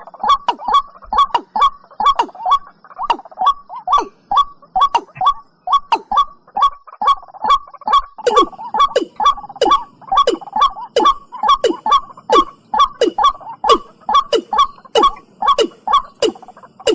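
Watercock (cúm núm) calling: a rapid, even series of short hollow notes, each with a quick downward slide, repeated without pause; from about eight seconds in the notes take on a stronger, deeper downward part.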